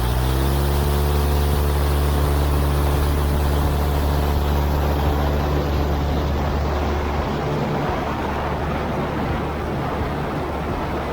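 Cubcrafters Carbon Cub EX's piston engine and propeller coming up to full power for takeoff. The pitch rises over the first second, then the engine runs steadily, easing slightly about seven seconds in.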